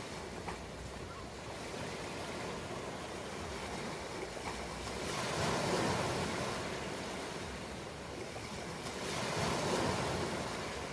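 Ocean surf: a steady rushing hiss of waves that swells twice, about halfway and again near the end, as waves break and wash in.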